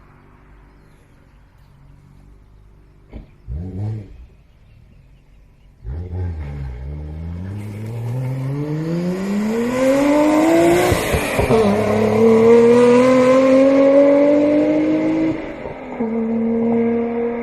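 Nissan Skyline GT-R R34's RB26DETT twin-turbo straight-six exhaust: a short rev blip about 3 to 4 seconds in, then the car accelerates hard, its note climbing steadily in pitch, dipping once at a gear change and climbing again. Near the end the note drops and settles to a steady pitch.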